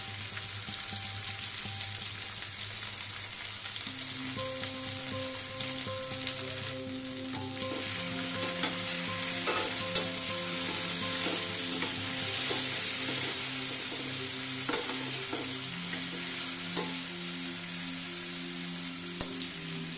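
Chopped tomatoes, garlic, green chillies and ginger frying in oil in a stainless-steel pan, a steady sizzle. A spatula stirs through and now and then clicks against the pan.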